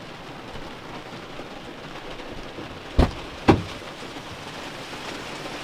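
Heavy rain falling, a steady hiss, with two sharp thumps about three seconds in, half a second apart.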